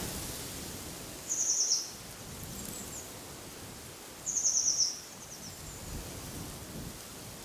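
A small songbird singing a short, fast, high trill twice, about three seconds apart, over a steady rush of wind through trees.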